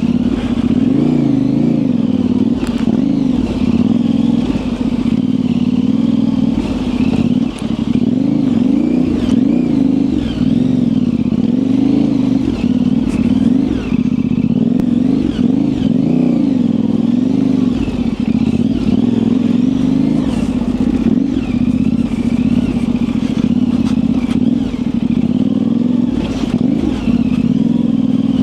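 Yamaha Ténéré 700's parallel-twin engine running at low revs, its pitch rising and falling with the throttle as the bike picks through tight trail, with occasional knocks and clatter from the bike over rough ground.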